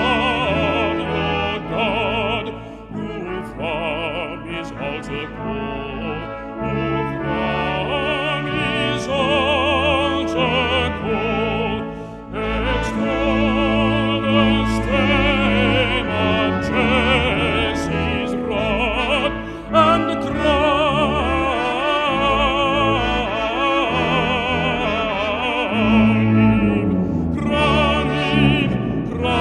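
Male baritone singing a hymn with vibrato, accompanied by a brass ensemble playing sustained chords.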